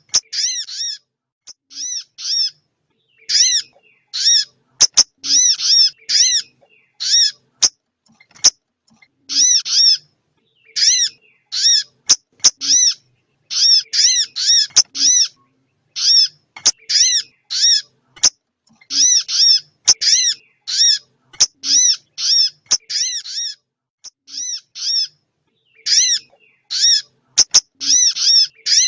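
Small songbirds calling in rapid clusters of short, high, arched chirps, repeated over and over like a looped bird-lure recording, with occasional sharp clicks.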